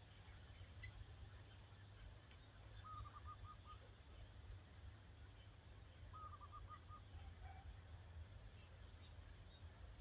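Faint outdoor ambience with a steady low rumble, in which a distant bird calls twice, each call a quick run of about six short notes.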